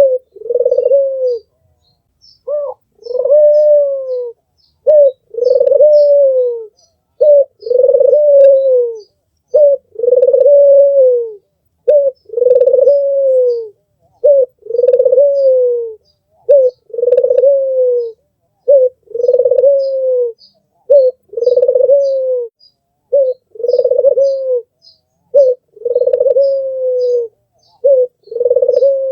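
An albino puter dove (white, red-eyed domestic Barbary dove) cooing over and over. Each call is a short note followed by a longer, slightly falling one, about one call every two seconds. Faint high chirps of small birds sound in the background.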